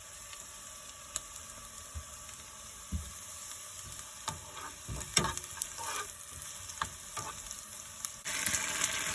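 Food sizzling in a hot frying pan, with scattered clicks and scrapes of a utensil against the pan; the sizzle turns suddenly louder near the end.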